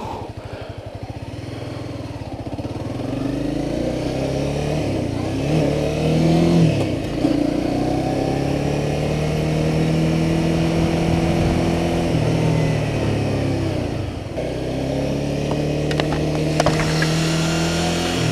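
Honda CBR300R's single-cylinder engine accelerating under way: its pitch climbs through the revs, drops sharply at gear changes about a third of the way in and again past the middle, and holds steady between shifts.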